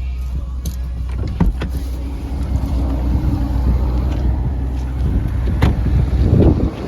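Ferrari Portofino's twin-turbo V8 running with a steady low rumble, with a few sharp clicks, one about a second and a half in and one near the end.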